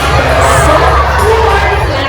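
Audience crowd noise, children shouting and cheering amid general voices.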